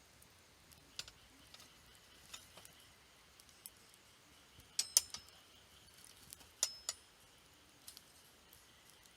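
Wood fire crackling: irregular sharp pops, the loudest cluster about five seconds in and another near seven seconds.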